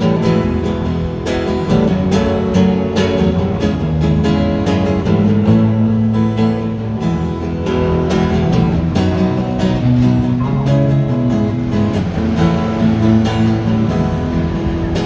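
Strummed acoustic guitar playing a steady instrumental interlude of a Cantopop song, live.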